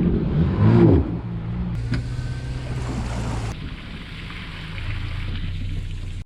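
Yamaha WaveRunner personal watercraft engine running at low speed with water noise. Its pitch swings up and down briefly near the start, then holds steady.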